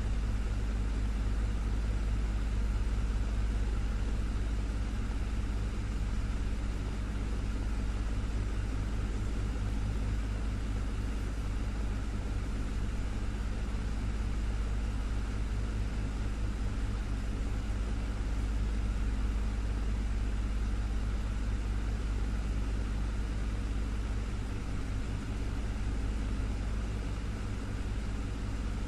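Desktop fan running steadily: a constant low motor hum under an even rush of air.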